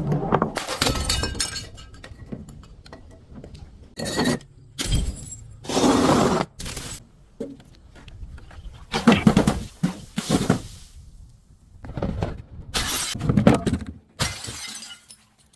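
Glass bottles shattering and objects being crushed: about ten separate crunching, breaking bursts with short gaps between them.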